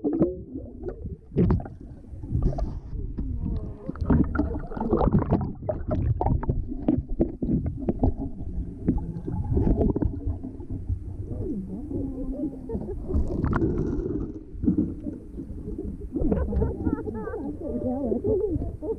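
Pool water sloshing and splashing, with indistinct voices of people in the pool behind it.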